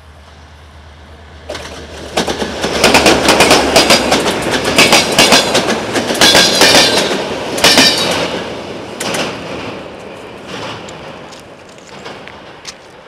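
Passenger train passing close by: a low hum at first as the locomotive nears, then a loud rush of wheels and carriages with rapid clicking over the rail joints, fading away after about eight seconds.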